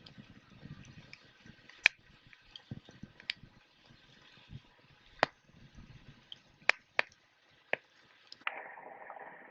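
Wood fire crackling: sharp, scattered pops over a faint hiss, the loudest about two seconds in. Near the end the sound turns duller and hissier.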